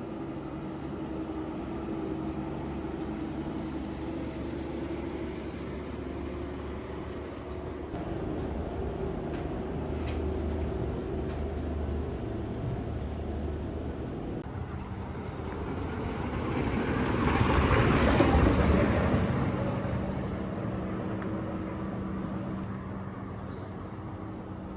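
Street traffic with engines running steadily, and a vehicle passing close that swells to the loudest point about three quarters of the way in, then fades.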